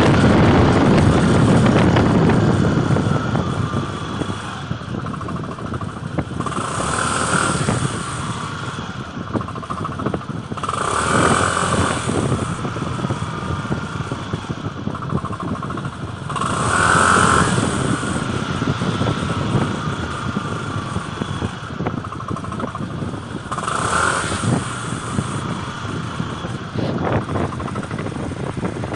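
Yamaha new Cygnus scooter under way, its engine loud at first and then easing. Four times a harsh noise lasting about a second or so rises over the ride: the clutch-bell (碗公) noise that comes when the throttle is closed and the centrifugal clutch lets go, before the scooter coasts quietly.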